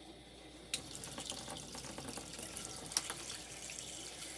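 Water running and splashing into the tub of a Kuppet portable washing machine as it is filled. The flow picks up sharply about a second in, with scattered clicks and splashes.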